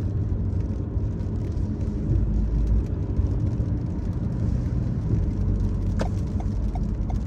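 Car driving, heard from inside the cabin: steady engine and road rumble. Near the end a run of light, evenly spaced ticks starts.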